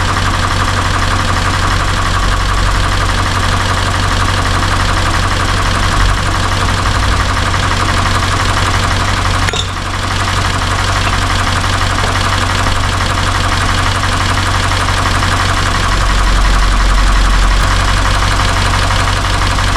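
Toyota 86 / Subaru BRZ's 2.0-litre flat-four engine idling steadily with the air conditioning running, during a refrigerant recharge. There is a brief dip in the sound about ten seconds in and a slight swell near the end.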